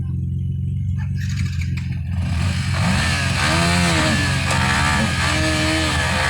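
Dirt bike engine idling, then from about two seconds in the throttle is worked and the engine revs up and down repeatedly, with a rushing noise rising alongside it.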